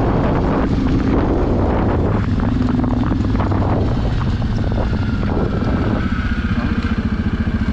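Suzuki KingQuad ATV's single-cylinder engine running steadily as the quad rides. Near the end the engine note settles into a slower, evenly pulsing beat.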